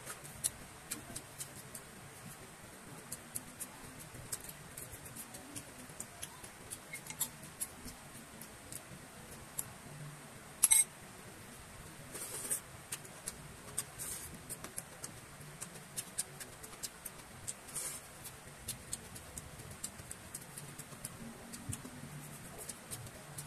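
Close-up eating sounds of a person chewing fried dried fish (tuyo) and fried rice: soft, irregular crunches and mouth clicks, with one sharper snap about eleven seconds in.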